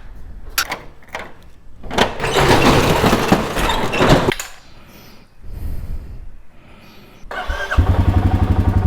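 A few sharp clicks and a couple of seconds of rushing noise, then near the end a Royal Enfield Meteor 350's single-cylinder engine starts up and idles with an even, rapid pulsing beat.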